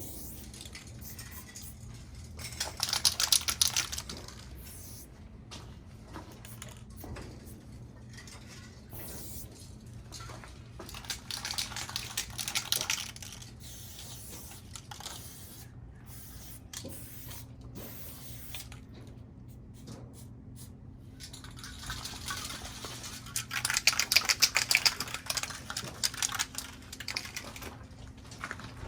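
Aerosol spray paint can spraying in three bursts of hiss: one about two and a half seconds in, another around eleven seconds, and a longer one from about twenty-two to twenty-six seconds.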